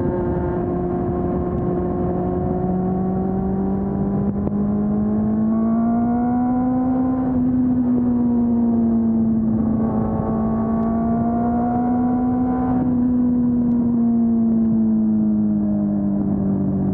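Honda CB400 Super Four's inline-four engine, through its stock exhaust, running steadily while ridden. Its note rises gently and eases back twice: it climbs a little around the middle, dips, climbs again, then settles lower near the end.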